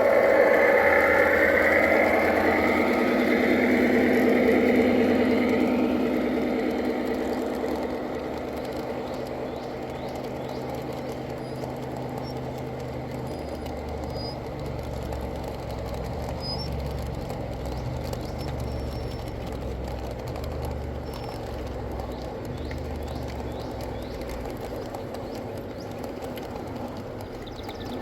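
G scale model train running on outdoor track. It is loudest in the first few seconds as it passes close, with a slowly rising whine, then eases into a quieter steady rumble.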